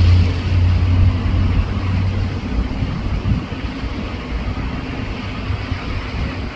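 A low engine drone that fades out about two and a half seconds in, over a steady rushing noise.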